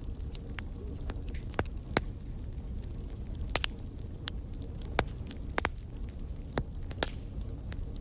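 Wood fire burning in a fireplace: irregular sharp crackles and pops, a few louder ones among many small ones, over a low steady rumble of the flames.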